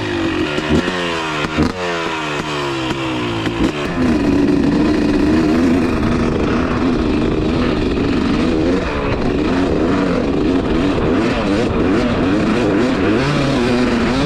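Husqvarna TC250 two-stroke dirt bike engine revving up again and again through the gears for the first few seconds. From about four seconds in it runs louder at steady high revs, its note wavering with the throttle.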